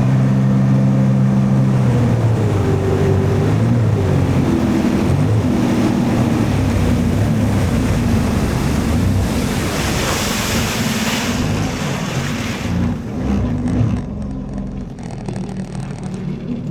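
Jet ski engine running under way, with water spray and wind noise. The engine note is steady at first, then wavers up and down in pitch. A loud rush of spray comes about ten seconds in, and the sound gets quieter and duller near the end.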